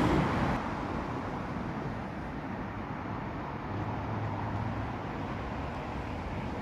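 A diesel train's engine note fading out within the first second as it moves away, followed by a steady low rumble of vehicle noise, with a brief low hum about four seconds in.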